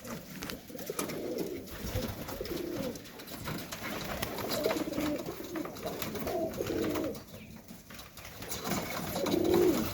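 Domestic pigeons cooing, with several overlapping low, warbling coos one after another and the loudest just before the end.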